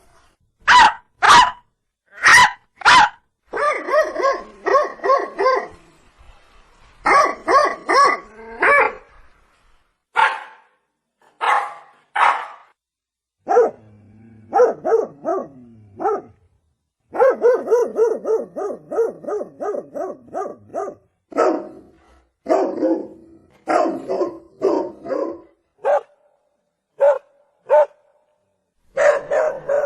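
Dog barking repeatedly: single sharp barks and quick runs of barks in bursts, with short pauses between the groups.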